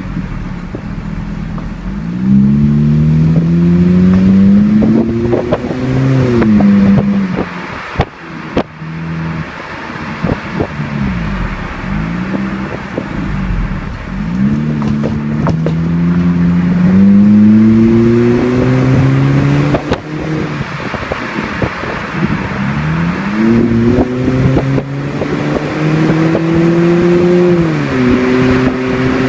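2009 Chevrolet Cruze engine through an aftermarket Friedrich dual exhaust, revving up and dropping back three times: each time the pitch climbs for several seconds, then falls quickly back toward idle.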